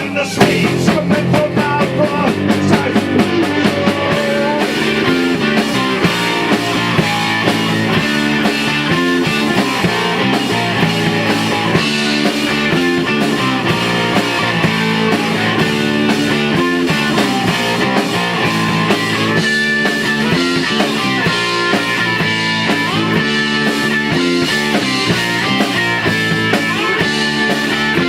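A rock band playing a song live at a rehearsal, with guitar to the fore.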